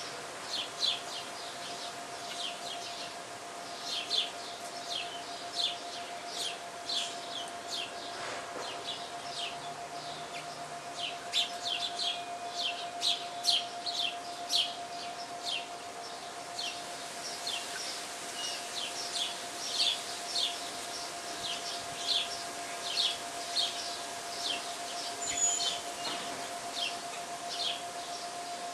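Sparrows chirping, a steady run of short, sharp chirps. A steady hum runs underneath.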